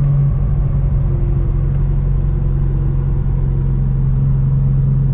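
Single-turbo BMW N54 inline-six car on the move, its engine and exhaust a steady low drone that drops slightly in pitch just after the start.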